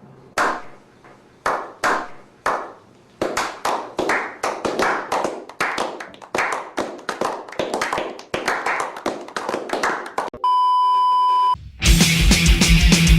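Crowd clapping in rhythm: slow single claps about a second apart that speed up and thicken as more hands join. Near the end it breaks off into a steady beep of about a second, followed by loud heavy-metal music with distorted guitars.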